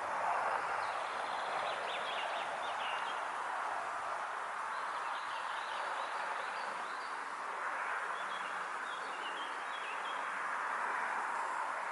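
Summer pondside ambience: a steady, gently swelling background with small birds chirping briefly in several short clusters over it.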